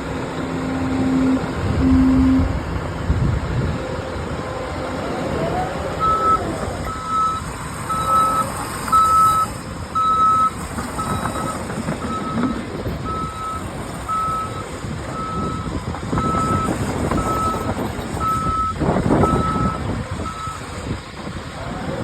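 Heavy earthmoving machinery running, with a reversing alarm beeping about once a second for some fifteen seconds from about six seconds in. There are two short low honks at the start and a louder engine surge near the end.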